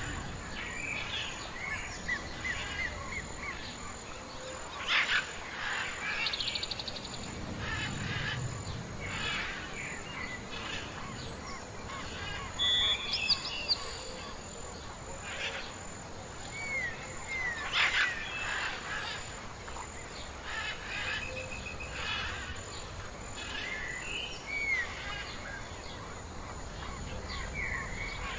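Mixed chorus of wild birds chirping and whistling, many short calls overlapping, with a couple of louder sharp sounds about five seconds in and again near eighteen seconds.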